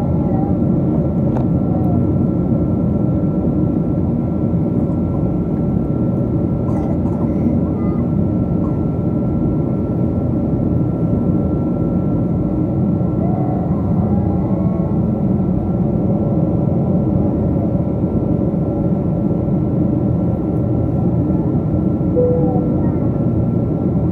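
Steady cabin noise inside a Boeing 777 airliner: a constant rumble with a thin high whine held throughout, and faint voices of other passengers in the background.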